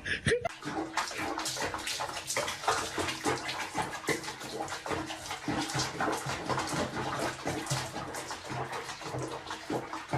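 Water splashing and sloshing irregularly, as in a bathtub being used for washing.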